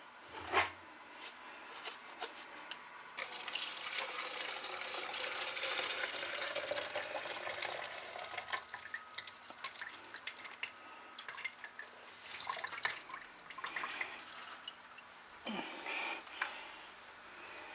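Fuel pouring out of a Stihl 021 chainsaw's tank into a cup: a steady trickle for several seconds starting about three seconds in, then scattered drips and small clatters.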